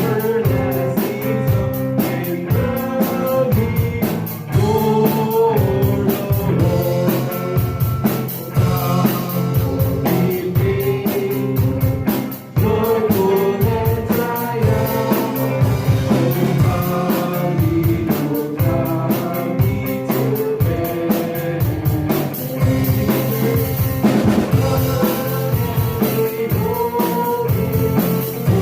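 Live church worship band playing with a drum kit and guitar, keeping a steady beat.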